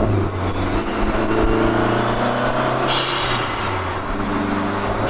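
Turbocharged four-cylinder engine of a Lancia Delta Integrale-based restomod driving past at speed, its engine note rising steadily, over road and wind noise.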